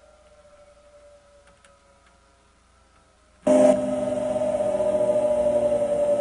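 Mark VII Aqua Jet GT 700 car wash machinery: faint for a few seconds, then a motor starts suddenly about three and a half seconds in and runs with a steady hum and rushing noise.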